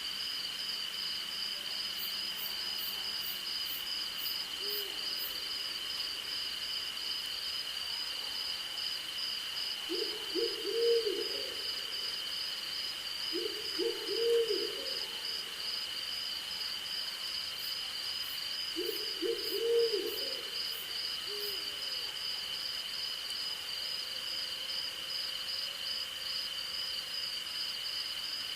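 An owl hooting in three short bouts of a few low notes each, a few seconds apart, over a steady chorus of crickets and other night insects at two high pitches, one of them pulsing rapidly.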